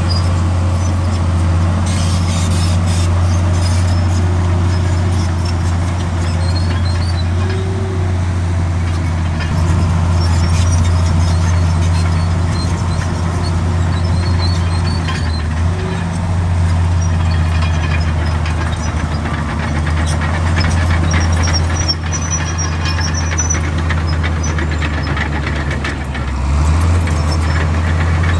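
Heavy diesel earthmoving machinery running steadily under load, a deep engine drone with faint high squeaks mixed in. Near the end the engine dips briefly, then picks up again.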